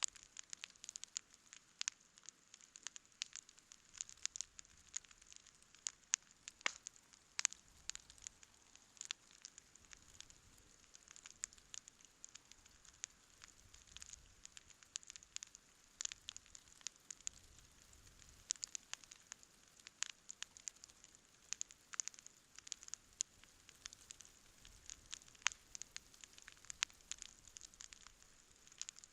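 Wood campfire burning and crackling: many sharp, irregular pops and snaps over a soft hiss.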